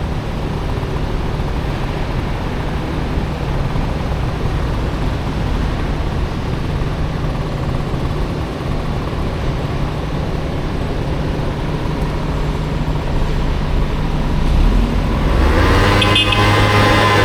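Honda Motocompo with a swapped-in Honda Dio scooter engine running steadily while riding in city traffic, with a constant low hum and rushing noise. Near the end, a louder, steadier engine tone with a clear pitch comes in.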